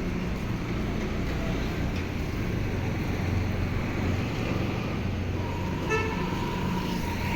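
Road traffic with a steady low rumble, and a vehicle horn honking about six seconds in.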